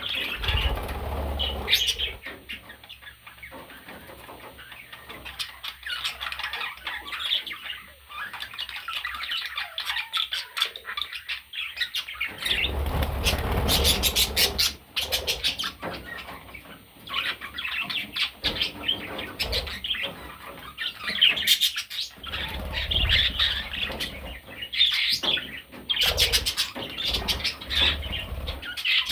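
Pet budgerigar chirping and chattering in quick, continual warbling calls, with a few louder noisy stretches that may be wing flapping.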